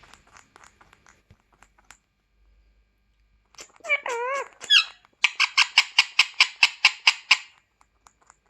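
Pet parrot calling: a wavering, warbling call lasting about a second, then a fast even run of sharp squeaks, about six or seven a second, for a couple of seconds.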